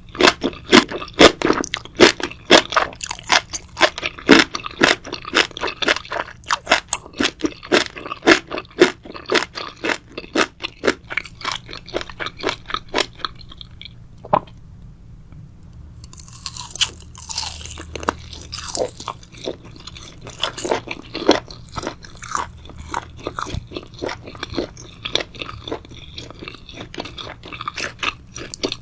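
A person chewing crunchy food close to the microphone: rapid crunching chews, several a second, a pause of about two seconds just past the middle, then crunching again.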